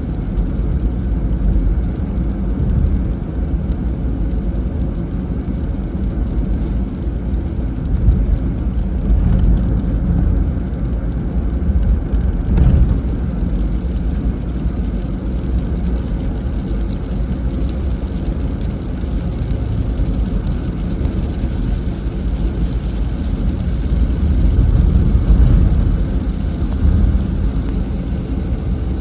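Vehicle driving in the rain on a wet road: a steady low rumble of road and tyre noise, with a faint tick about halfway through.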